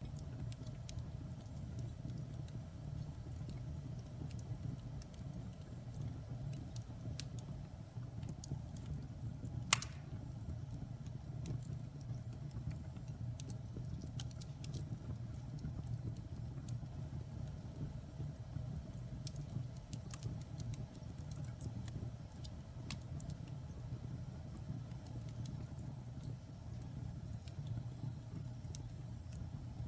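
Wood fire burning in a fireplace: a steady low rumble of flames with scattered crackles, and one louder pop about ten seconds in.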